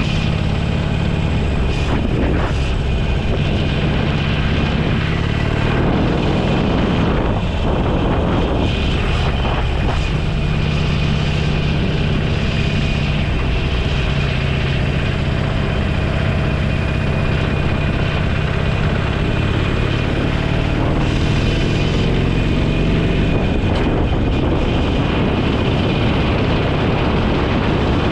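Motorcycle engine running under way at a steady cruise, with a constant rush of wind over the microphone. The engine note rises and falls a little as the speed changes.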